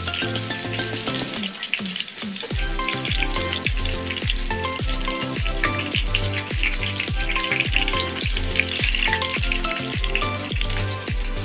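Breaded chicken cutlets sizzling and crackling as they shallow-fry in hot oil in a pan. Background music plays over it, with a steady beat of about two a second coming in after about two and a half seconds.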